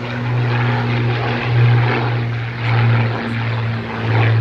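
Propeller engines of radio-controlled scale model Spitfire and Hurricane warbirds flying past, a steady drone that swells and fades several times.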